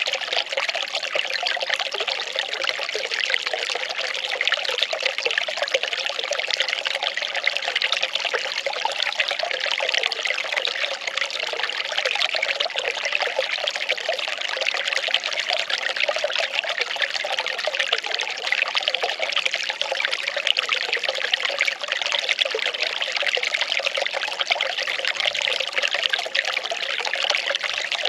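Well water running in a steady, unbroken trickling and pouring flow.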